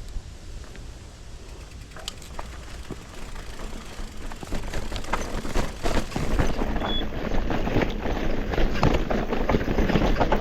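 Mountain bike rattling over loose rocks on a rough descent, with a steady run of knocks and clicks from the frame and wheels that grows louder and busier about halfway through. A low wind rumble sits on the microphone throughout.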